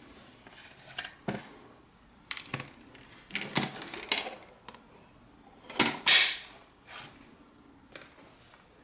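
Handling noises: scattered clicks, knocks and short rustles, the loudest a sharp knock and scrape about six seconds in. No vacuum motor is running.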